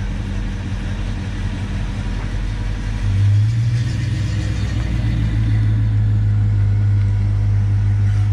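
Classic cars' engines rumbling at low speed as they drive slowly past. A louder, steady low exhaust rumble comes in about three seconds in as the next car, a 1956 Chevrolet, approaches.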